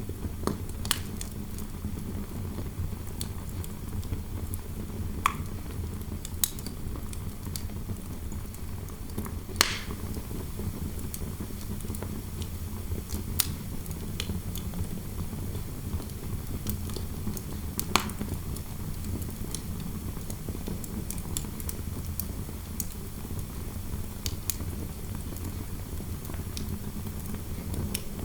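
Fireplace fire crackling, with irregular sharp pops scattered over a steady low rumble of interior wind noise.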